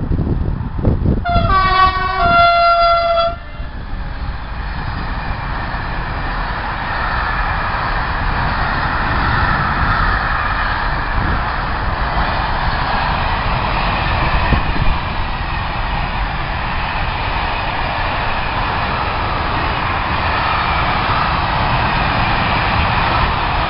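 Train horn sounding a two-note blast about a second in, followed by a train passing with a steady rumble and the rattle of wheels on the rails.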